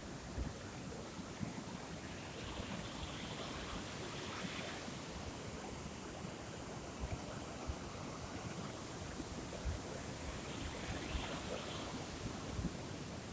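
Sea surf washing against the shore, a steady hiss that swells twice, with wind buffeting the microphone in low thumps.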